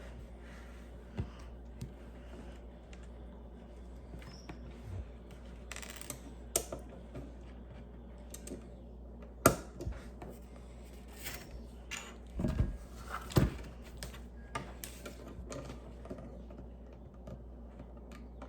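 Small plastic Lego pieces being handled and snapped together: scattered irregular clicks and taps, with a few louder knocks about halfway through, over a steady low hum.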